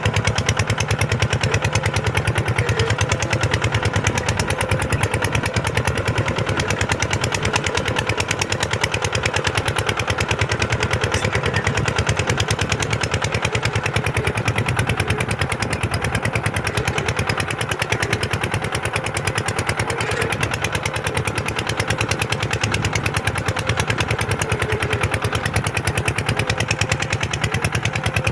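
Kubota single-cylinder diesel tractor engine running steadily, its firing beat rapid and even.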